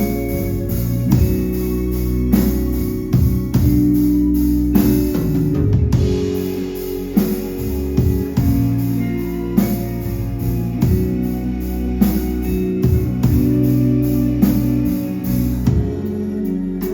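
Live band playing a ballad without vocals: guitar and sustained chords over a drum kit keeping a steady beat.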